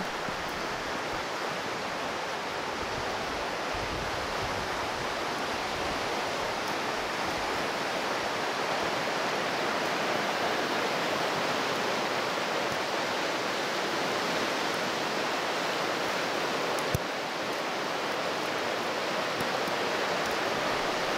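Steady, even rushing noise with no pitch or rhythm, with a single sharp click about seventeen seconds in.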